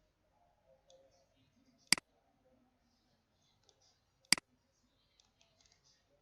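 Two sharp computer mouse clicks, about two and a half seconds apart, each a quick double tick of button press and release.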